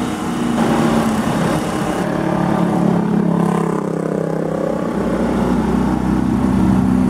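Turbocharged Honda K24Z four-cylinder engine of a Civic Si idling, with a steady, even note.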